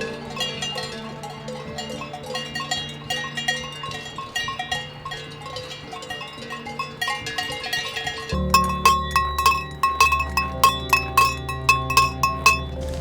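Cowbells clanking irregularly on grazing cattle, many ringing strikes. The clanking gets louder and quicker about two-thirds of the way through.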